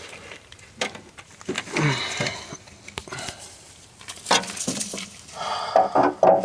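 Scattered metallic clinks and knocks, some briefly ringing, as tools and metal parts are handled on a lawn mower while its drive belt is worked off. A short vocal grunt comes about two seconds in.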